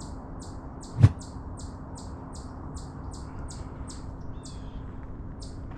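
A small songbird calling a rapid series of short, high notes, about two to three a second, which thins out near the end. A single sharp knock about a second in.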